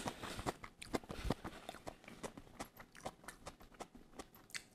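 A person chewing a mouthful of food close to a clip-on microphone: faint, irregular mouth clicks and smacks.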